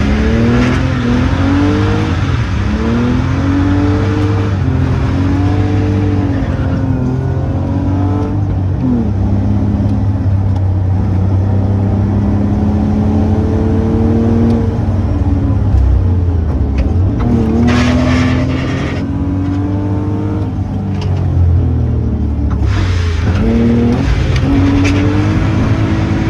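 Car engine driven hard, revving up and dropping back again and again as it changes gear and brakes between bends. Bursts of hiss come in about two thirds of the way through and again near the end.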